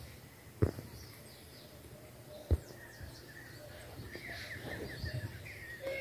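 Small birds chirping faintly in a rapid run of short notes in the second half, over outdoor background noise. Two sharp knocks stand out as the loudest sounds, about half a second in and again about two and a half seconds in.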